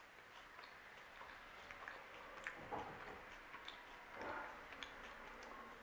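Faint chewing of a cookies-and-cream protein bar with crunchy biscuit pieces: soft, scattered mouth clicks and small crunches.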